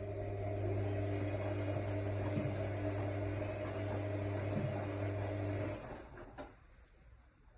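AEG Lavamat L62850L washing machine giving a steady electrical hum from a motor or pump that stops about six seconds in, followed shortly by a single click.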